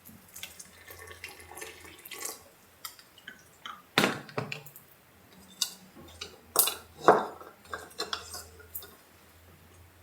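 Ceramic gaiwan being handled: a string of light clinks and knocks of the porcelain lid against the bowl, the two loudest about four and seven seconds in.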